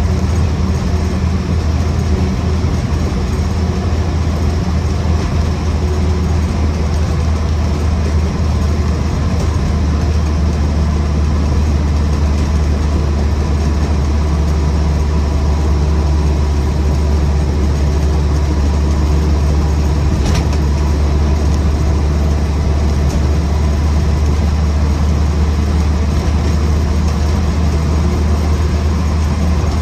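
Land Rover Series 1 88-inch's 2-litre four-cylinder petrol engine running at a steady cruise of about 45 mph, an even low drone with road and drivetrain noise and no change in speed. One faint click about two-thirds of the way through.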